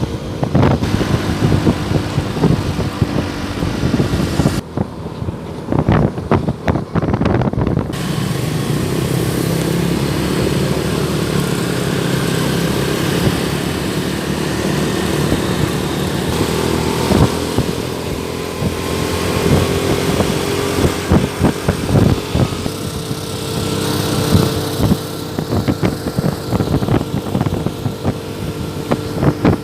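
A motor engine running steadily under way, with frequent knocks and rattles, and a slow rise in pitch partway through.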